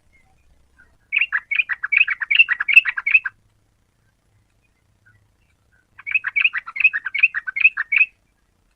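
Yellow-vented bulbul singing two bubbly phrases of rapid, alternating high and low chattering notes, each about two seconds long, separated by a pause of nearly three seconds.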